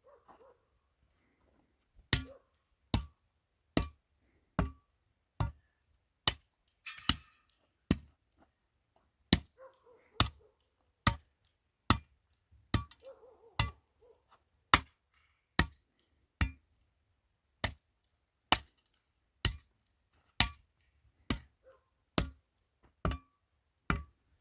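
Sharp chopping blows struck at a steady pace, about one every 0.8 seconds, starting about two seconds in.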